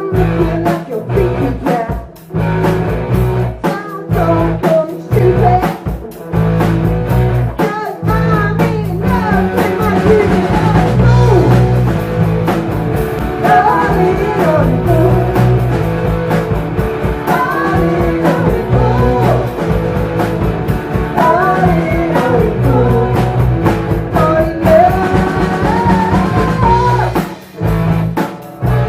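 Live rock band playing a blues-tinged psychedelic rock number, with a sliding, bending lead line over a steady bass and drums. The band stops briefly a few times, once near the end.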